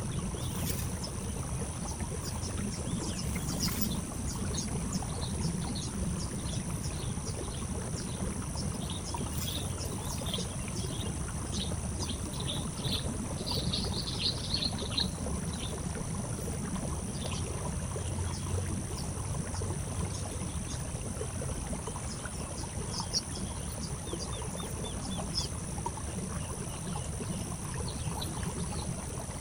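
Small birds chirping in short, quick notes, busiest in the middle, over a steady high insect drone and a constant low rumble.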